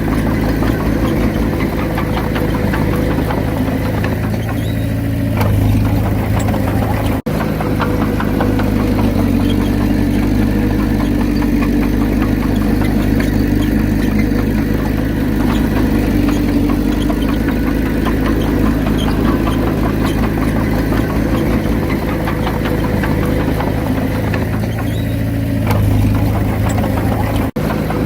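Diesel engine of a Komatsu D31P bulldozer running steadily, its note shifting briefly about five seconds in and again near the end.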